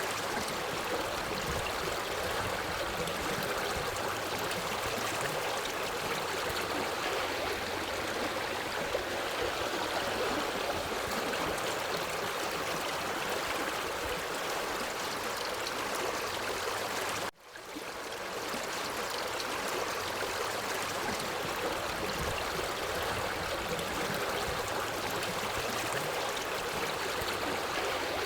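Forest stream flowing over rocks, a steady rush and trickle of water. About 17 seconds in the sound cuts out for an instant and fades back in, a loop point in the recording.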